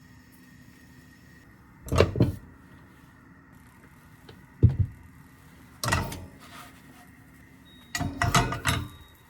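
Short knocks and clatters of things being handled and set down, in four separate bursts: about two seconds in, twice near the middle, and a longer rattling run near the end. A faint steady hum sits underneath.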